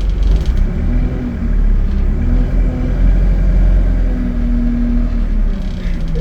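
ADL Enviro 200 bus's diesel engine and Allison automatic gearbox running under way, a steady low rumble with a whine that rises and holds several times, then drops in pitch near the end.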